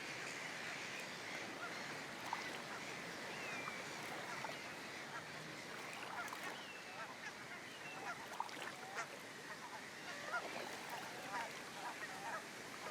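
Many waterbirds calling over one another, as in a breeding colony, in short calls, some rising or falling in pitch, over a steady background hiss. The calls get busier from about halfway through.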